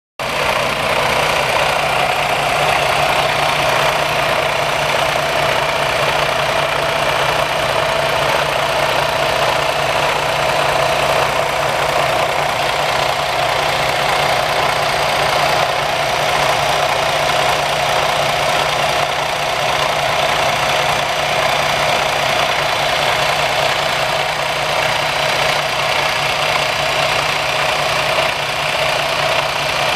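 Freightliner Cascadia semi truck's Detroit diesel engine idling steadily.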